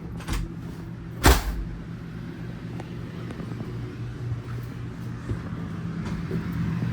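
Steady hum of the camper's rooftop air conditioner running, with one sharp thump about a second in.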